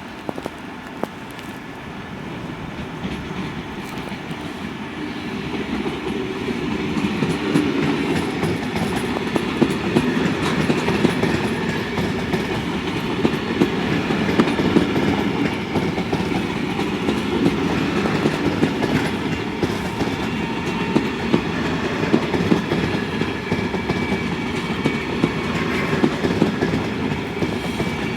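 A train running along the rails, growing louder over the first several seconds and then holding steady, with frequent sharp wheel clicks.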